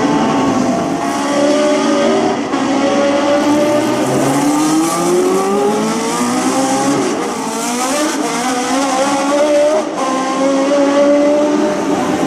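Historic 1966–1972 Formula 1 race cars running on a street circuit, several engines heard at once. One engine climbs steadily in pitch as it accelerates, about four to eight seconds in.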